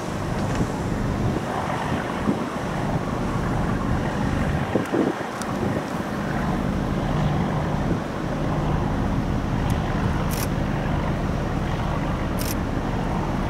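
Low, steady drone of a RORO cargo ship's engines, with wind buffeting the microphone. Two brief high hissy ticks sound near the end.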